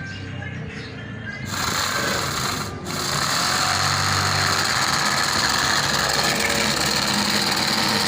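A small motor running with a rapid, steady mechanical chatter. It comes in about a second and a half in, breaks off briefly, then runs evenly. Music is heard at the start.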